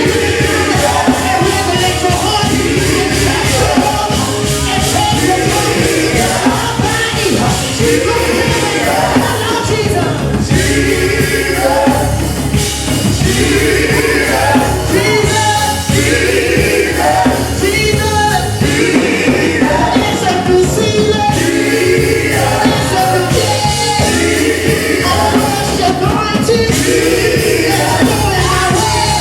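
Live gospel worship music: a band with bass and drums playing loudly under singers.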